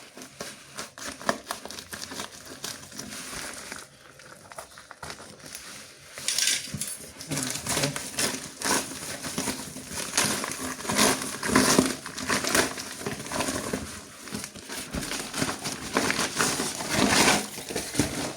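Parcel packaging crinkling, crackling and tearing as it is handled and pulled open by hand, growing louder and busier after the first few seconds.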